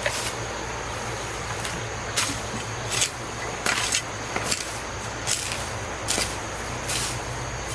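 A brush swishing in short, irregular strokes, about one a second, over a steady low hum.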